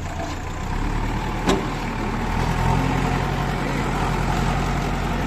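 Diesel engine of a JCB 3DX backhoe loader running steadily, its note growing a little stronger about two and a half seconds in. A single sharp clank about one and a half seconds in.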